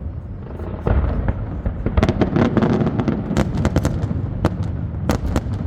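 Aerial fireworks display: a run of bangs and rapid crackling over a continuous low rumble, with a dense cluster of sharp cracks in the middle and a few louder reports about a second in and near the end.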